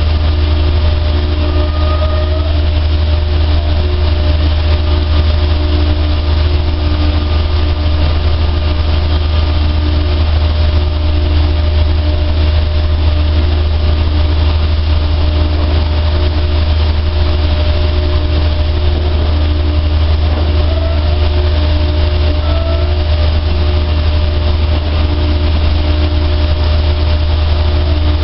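A dryer's motor and fan running with a steady, loud low drone.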